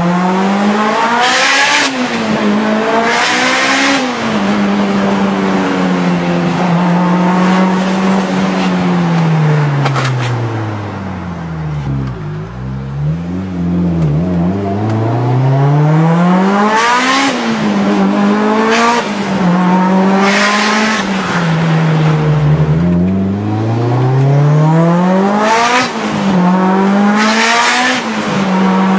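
Mitsubishi Lancer Evolution IX's turbocharged 2.0-litre 4G63 inline-four, heard from the cabin, pulling hard through the gears and easing off to a low drone in the middle. At several shifts the revs peak and drop, each time with a sharp, loud hiss from the open wastegate.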